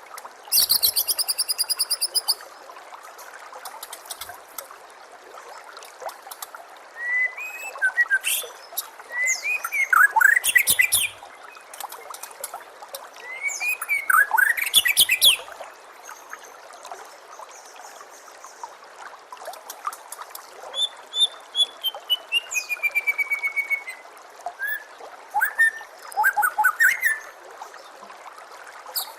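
White-rumped shama (murai batu) singing in separate phrases: a fast rattling series of notes near the start, whistled notes gliding up and down in the middle, and a falling run of clear notes about two-thirds of the way through. Behind it runs a steady trickle of water.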